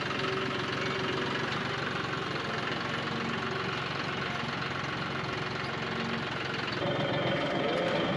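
John Deere 5055E tractor's diesel engine running steadily. About seven seconds in it gets a little louder and takes on a higher steady tone.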